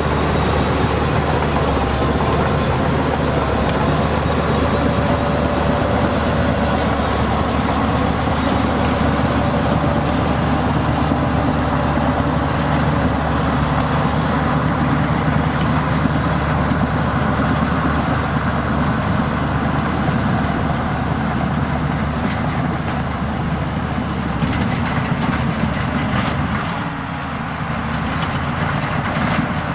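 Heavy diesel earthmoving machinery running steadily, with a short easing of the engine noise near the end.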